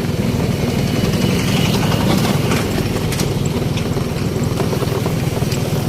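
An engine running steadily at a constant low, even rumble.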